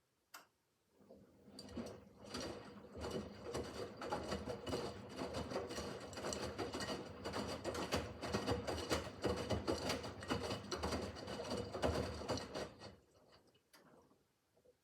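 Miele W5801 WPS front-loading washing machine mid-wash: after a single click, the drum turns for about twelve seconds, the motor humming under a dense clatter of laundry and water tumbling, then stops near the end.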